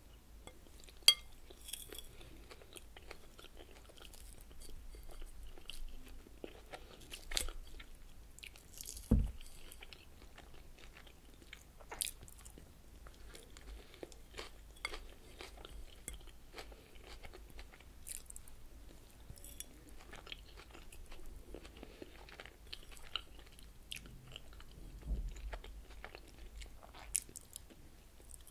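Close-miked chewing of a crunchy lettuce salad, with wet crunches and mouth sounds throughout and scattered sharp clicks, the loudest about a second in. Two low thumps stand out, at about a third of the way through and near the end.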